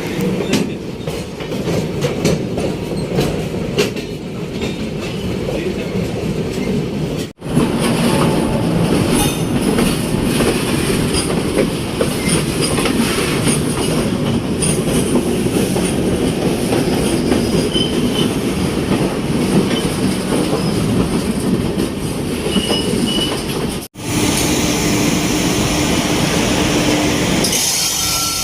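Passenger express train running at speed, heard from on board: steady rumble and clatter of wheels over the rails. The sound cuts out abruptly twice, about 7 and 24 seconds in.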